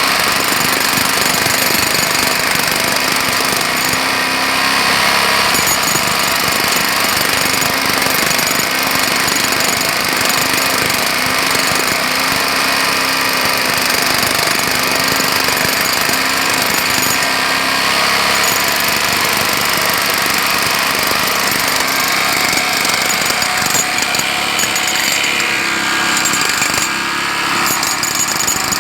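Jackhammer hammering without a break, a fast, continuous rattle of blows at a steady, loud level.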